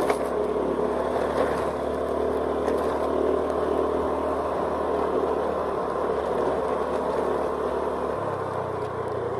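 Vehicle engine running steadily with road noise and some clatter while travelling over a rough, bumpy road. The engine note shifts about eight seconds in.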